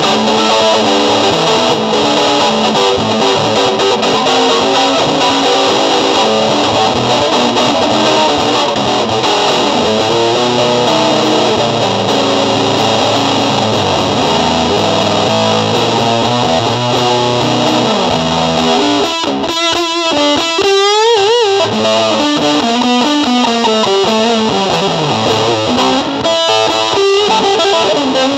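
Electric guitar played through distortion and effects, a dense, sustained noisy texture. About two-thirds of the way in it thins out into wavering, warbling pitches before filling back in.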